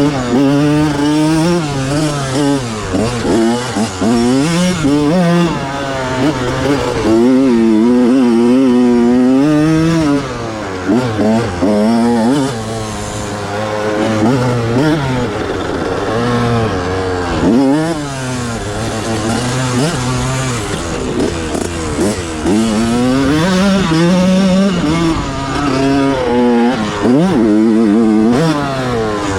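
1987 Honda CR125's single-cylinder two-stroke engine revving up and dropping back again and again, its pitch climbing and falling every second or two.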